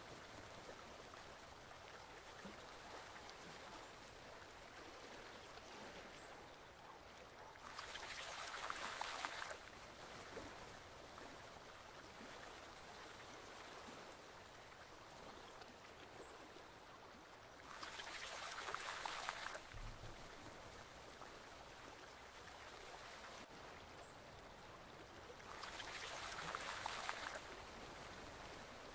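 Forest stream flowing: a faint, steady rush of water that swells louder for a second or two three times, about every eight or nine seconds.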